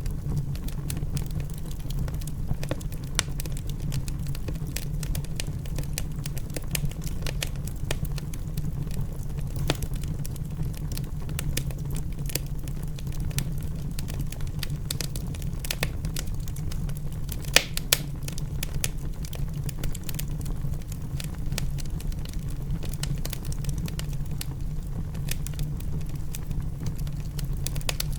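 Wood fire crackling in a fireplace: a steady low rush from the flames with frequent sharp pops and snaps, and one louder pop a little past halfway.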